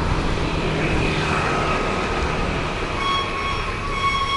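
Motorbike engine and road noise while riding, a steady low rumble with a hiss over it. A steady high whine comes in faintly about a second in and grows clear from about three seconds in.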